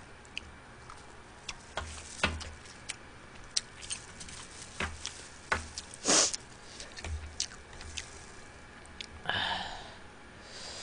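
Close-miked eating sounds from a person eating spicy steamed blue crab: chewing and wet mouth noises, with scattered sharp clicks and crackles, and a longer, softer noisy sound about nine seconds in.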